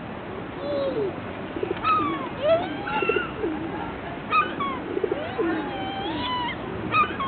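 A flock of birds calling over and over: short, sharp high cries about every two and a half seconds, with lower calls that slide up and down in between.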